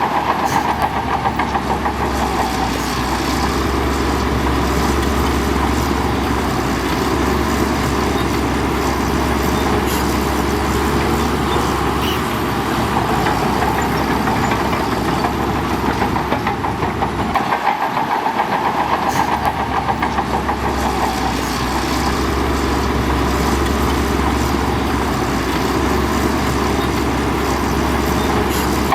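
Heavy diesel earthmoving machinery running steadily under load: the engine of a bulldozer or dump truck working gravel, with a continuous rumble and mechanical clatter.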